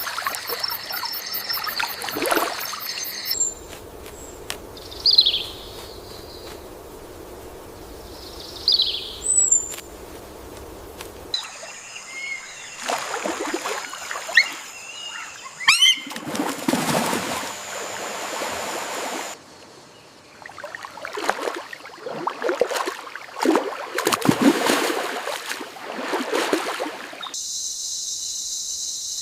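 Rainforest river ambience that changes abruptly several times: splashing water, two short downward-sliding bird chirps in a quieter stretch, more bursts of splashing, and a steady high insect drone starting near the end.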